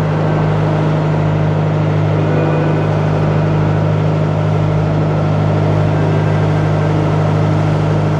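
River boat engine running steadily at speed, a loud, even low drone with no change in pitch.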